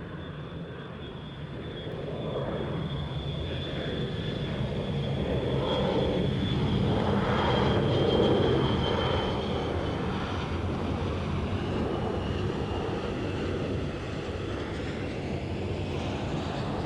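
Turbofan engines of an Envoy regional jet at takeoff power on its departure from the runway. The roar builds to a peak about eight seconds in and then holds steady, with a high whine that fades soon after the peak.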